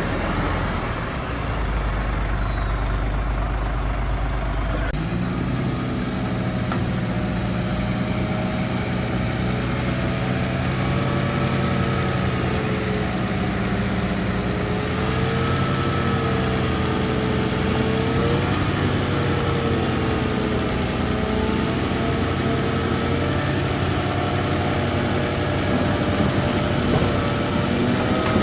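Diesel engine of heavy earthmoving machinery running steadily, with a whining tone that rises and falls gently over the engine's low drone. The sound shifts about five seconds in.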